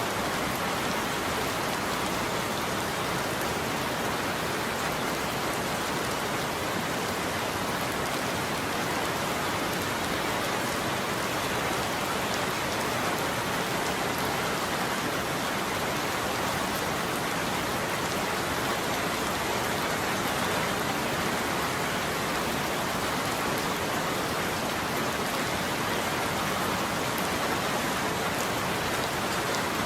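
Steady heavy rain falling on a roof, an even hiss with no break or thunderclap.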